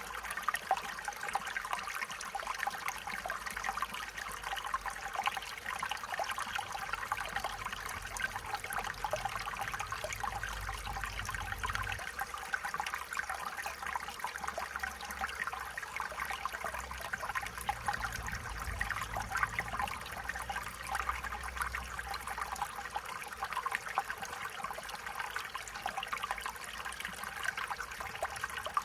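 Stream water flowing steadily, a continuous trickling and splashing.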